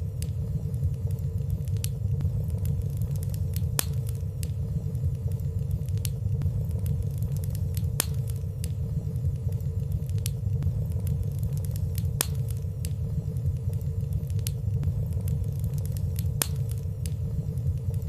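Fireplace fire burning with a steady low rumble and a faint steady hum, dotted with small, light crackles; a few slightly louder crackles come about every four seconds.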